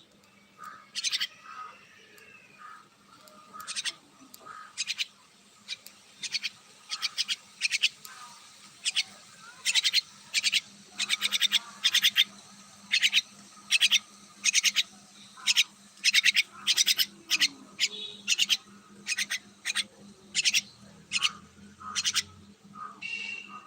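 Myna calling over and over in short, rapid notes, about one to two a second, more densely after the first few seconds.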